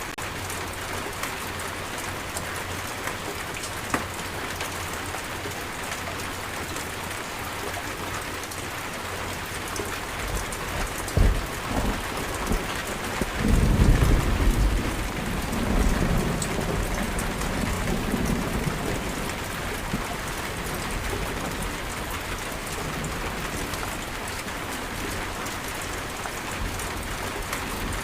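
Steady heavy rain, with a roll of thunder rumbling about halfway through and fading away over several seconds.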